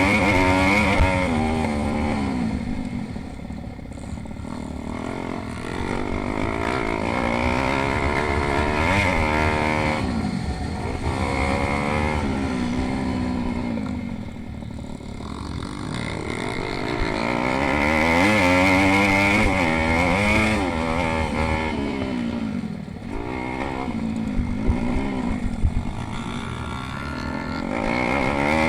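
Several pit bikes racing, their small engines revving up and dropping back over and over through gear changes and corners, the sound swelling and fading as the bikes come close and pull away.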